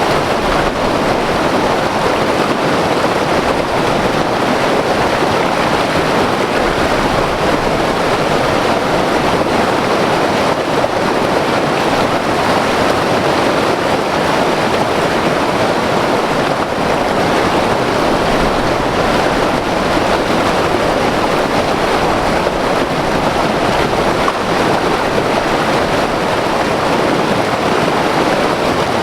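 White water river rushing over rocks: a loud, steady roar of churning water with no breaks.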